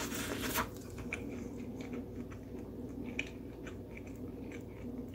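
A person bites into a soft banana bread muffin about half a second in, then chews it, a run of small crackles and mouth clicks.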